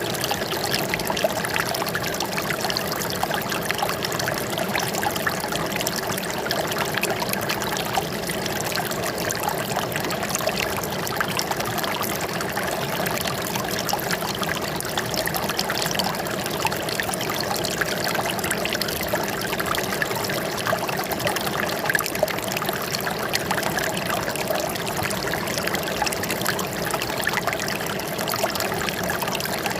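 Running water trickling and pouring steadily, an even splashing flow with no let-up.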